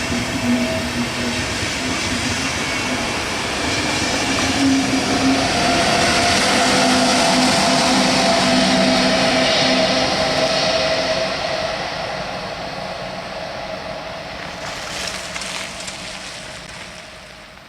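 Diesel-hauled train passing on the line, its rumble and rail noise building to a peak about seven to nine seconds in, then fading away as it moves off.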